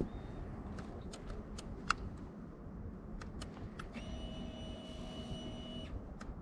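Faint clicks, then a steady electric whine of about two seconds starting about four seconds in, from a stalled Honda CRF300L as the rider tries to restart it in gear. The engine does not fire.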